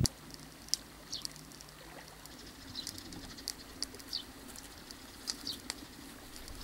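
Small birds chirping: scattered short, high chirps, a few falling briefly in pitch, over a faint steady hum.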